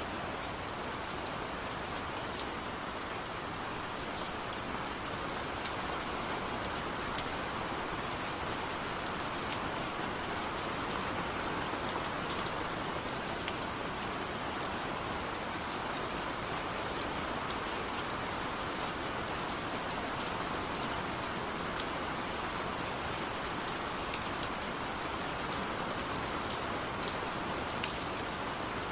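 Steady rain falling, an even hiss with scattered sharp drip ticks of individual drops.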